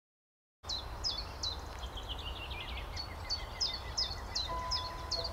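Birdsong: a bird repeats a short, high, falling note two or three times a second while other birds chirp, over a steady low rumble of outdoor ambience. It starts suddenly under a second in, and soft held music tones come in near the end.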